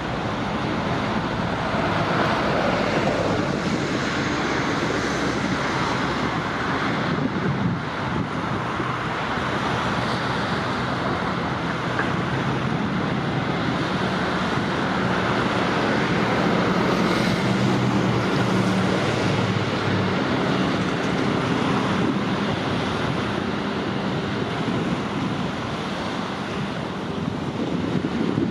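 Steady outdoor rushing noise of wind buffeting the microphone, with a faint low hum that grows for a few seconds past the middle.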